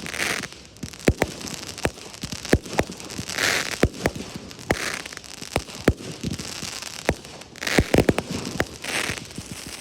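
Fireworks display: an irregular string of sharp bangs from bursting shells, with patches of dense crackling about three seconds in and again near the end.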